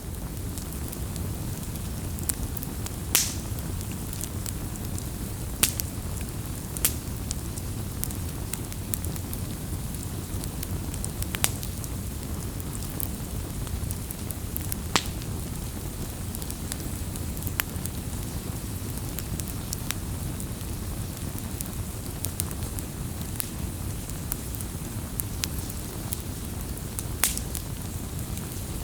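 Wood campfire burning: a steady low rumble of flames with scattered sharp crackles and pops, a few louder snaps standing out.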